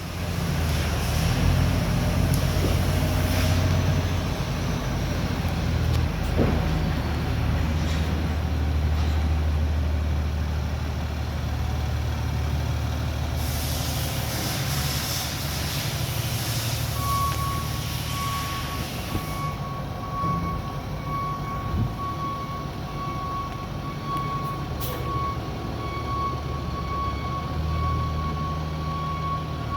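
Peterbilt 337 truck's PACCAR PX-8 diesel engine running steadily. There are two stretches of hiss, one at the start and one about halfway through. A steady high-pitched beep or buzzer tone comes in a little past halfway and keeps going.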